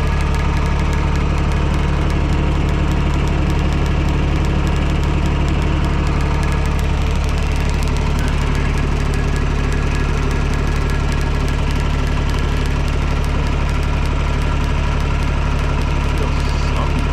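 TYM T224 subcompact tractor's diesel engine idling steadily.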